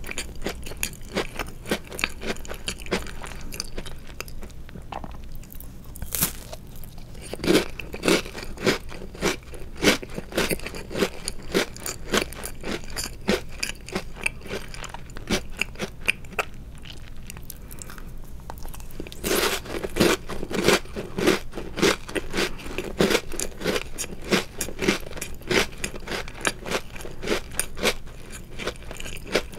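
Chewing and crunching of chocolate-covered Oreo cookies: a rapid, continuous run of crisp crunches, heavier around seven seconds in and again from about nineteen to twenty-three seconds in.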